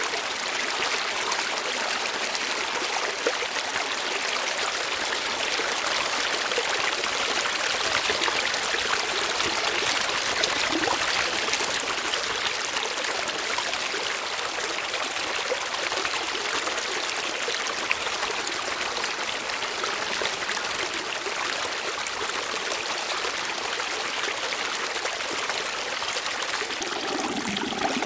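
Water flowing in a stream, a steady even rush of running water, with a deeper gurgle coming in near the end.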